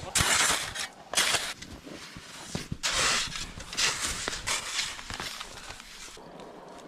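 Footsteps crunching through snow: several irregular crunches in the first five seconds, fading toward the end.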